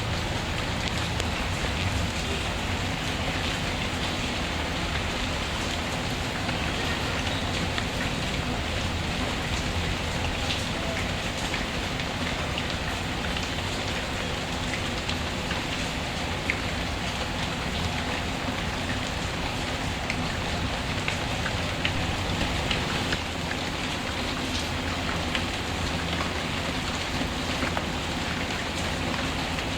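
Steady rain falling, an even hiss of many drops, mixed with the occasional small crackle and pop of a wood fire.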